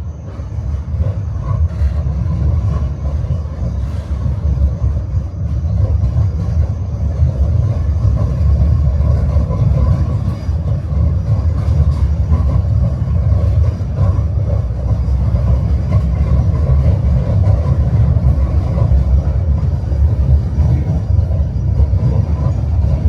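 Tram running along the rails, heard from on board: a steady low rumble of wheels and running gear that builds up over the first few seconds, with a few faint light clicks.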